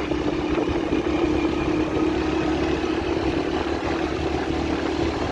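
Honda CD 70 motorcycle's small single-cylinder four-stroke engine running at a steady cruising speed, a constant hum under the road and wind noise of the ride.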